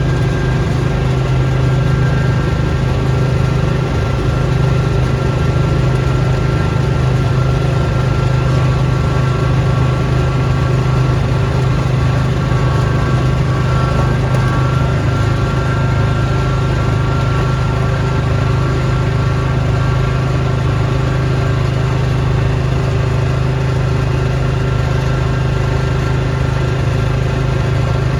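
Small engine of snow-clearing equipment running steadily at a constant speed, with a strong low hum.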